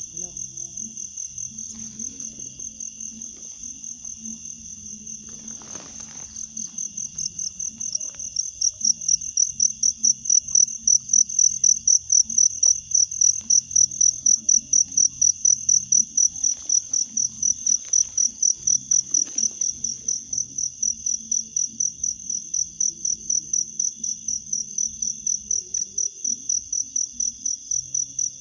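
An insect, cricket-like, chirping in an even high-pitched pulsing rhythm of about three pulses a second, growing louder about eight seconds in.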